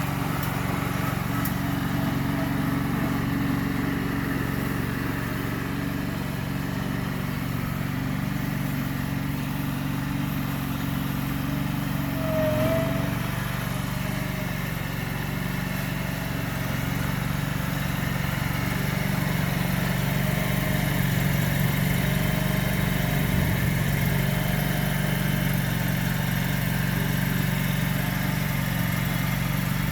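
Tractor engine running at a steady speed as it is driven along, a constant even hum.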